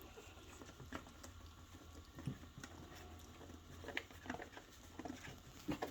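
Puppies at their food, nibbling and moving about: faint, scattered small clicks and taps.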